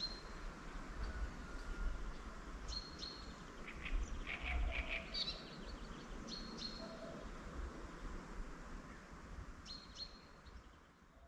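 Wild songbirds chirping: short, high chirps repeated every second or two, with a quick run of lower notes about four seconds in, over a low rumble. The sound fades out near the end.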